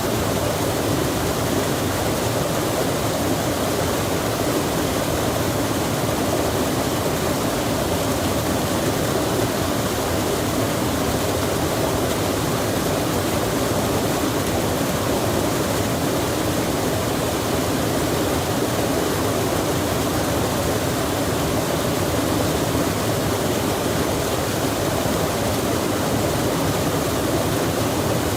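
Stream rushing steadily with rain falling: an even wash of water noise, heaviest in the low-middle range, with no single drops or splashes standing out.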